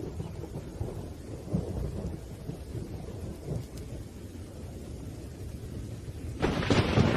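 Thunderstorm: low, continuous rumbling thunder under rain, broken near the end by a sudden, louder clap of thunder.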